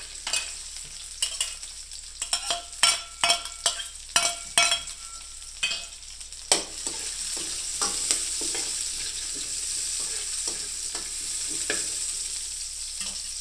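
Sliced onions and minced garlic sizzling in very hot oil in a wok, with a metal ladle knocking and scraping against the pan many times in the first half. After that, a steady sizzle.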